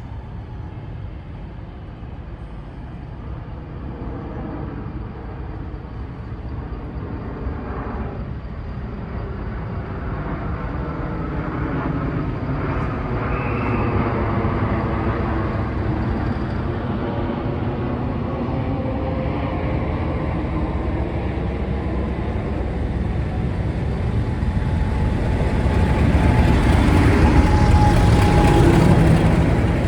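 A train approaching, its steady pitched hum growing gradually louder and loudest near the end.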